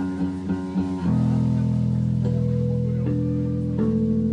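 Rock band playing live: guitar notes over a held bass drone. There is a run of quick note changes in the first second, then long sustained notes that shift about three seconds in.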